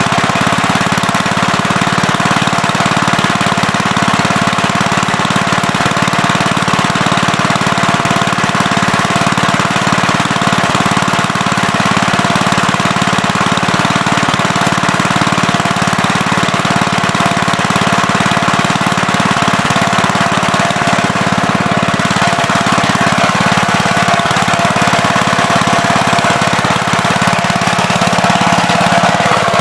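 Gravely Terramite backhoe engine running steadily at working speed while digging, its pitch sagging slightly near the end.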